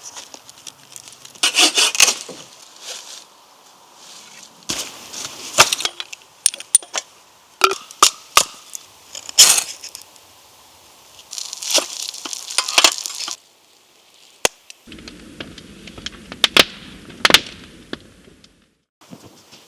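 Dry sticks snapping and cracking: a series of sharp cracks with several longer crunching bursts in between, irregularly spaced.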